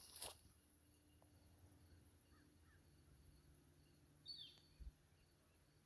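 Near silence: faint outdoor ambience, with one brief, faint, high falling call a little past four seconds in and a soft low thump just after it.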